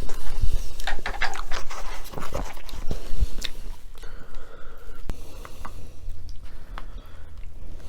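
Close-miked eating sounds: irregular wet chewing, smacking and mouth clicks as food is chewed.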